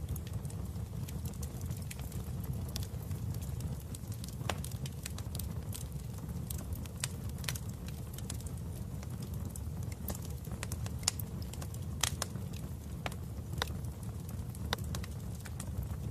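Wood fire burning in a fireplace: a steady low rumble of flames with irregular sharp crackles and pops, a few of them louder snaps.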